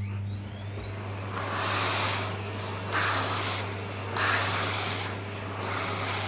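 Vacuum cleaner switching on, its motor whine rising in pitch over the first second or so, then running steadily under a low hum. The rush of suction swells and eases four times in regular strokes, as the brush head is drawn over a cat's fur.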